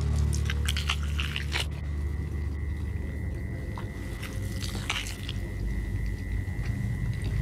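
A person biting and chewing meat off the bone, with sharp clicky mouth noises in two spells: the first second and a half, and again around five seconds in. A low steady drone runs underneath, and a thin steady high tone comes in about two seconds in.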